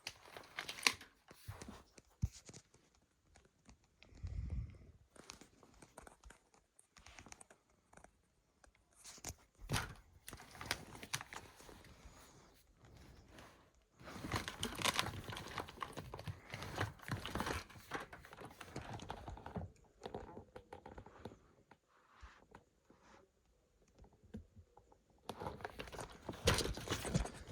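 Irregular handling sounds: scattered clicks and knocks with stretches of rustling and crinkling and quiet gaps between. There is no steady fan hum.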